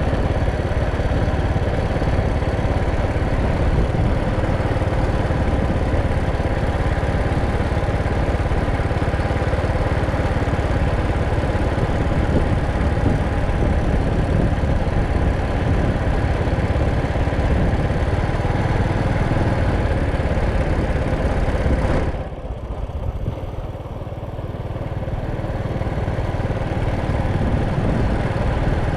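Motorcycle engine running steadily during a ride, with a heavy low rumble. About three-quarters of the way through it eases off and goes quieter for a couple of seconds, then builds back up.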